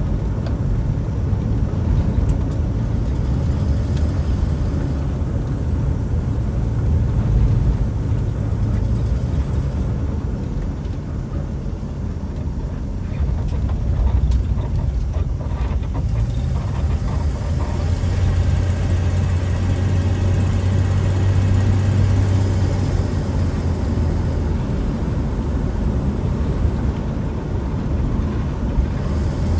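1964 Chevy Nova's engine and road noise heard from inside the cabin while driving: a steady low drone that dips a little and picks up again about halfway through. The engine is running smoothly, with no stumbling, after a choke repair and tune-up.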